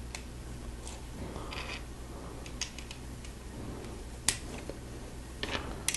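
Plastic Lego pieces clicking and tapping as they are handled and pressed together: scattered sharp clicks, the loudest about four seconds in and a quick cluster near the end, over a steady low hum.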